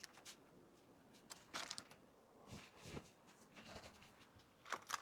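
Faint rustling and light taps of items and plastic packaging being handled, in a few short bursts.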